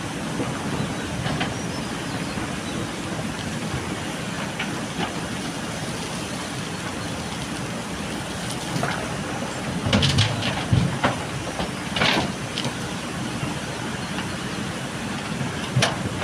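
JCB backhoe loader's diesel engine running steadily under work, with a burst of clanks and rattles about ten to twelve seconds in and another near the end, as the loader works the gravel.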